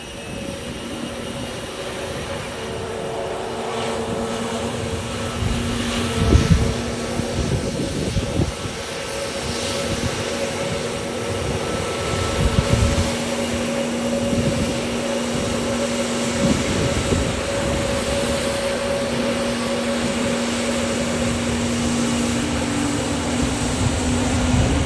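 Airliner engines running with a steady hum of several held tones over a rumble, slowly growing louder, with a few short low thumps.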